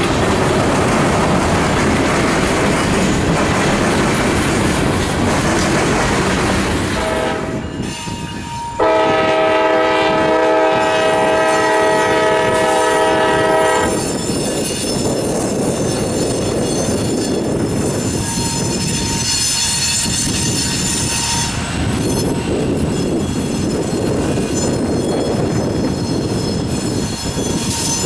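Train passing with a steady rumble and clatter of wheels on rail. About nine seconds in, the locomotive's horn sounds one long chord of several tones for about five seconds. After the horn, a thin high-pitched wheel squeal rings over the rumble.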